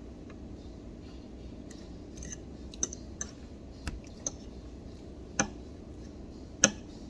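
Dishes and utensils clinking on a table, about six short sharp knocks spread over a few seconds, the last the loudest, over low restaurant room noise.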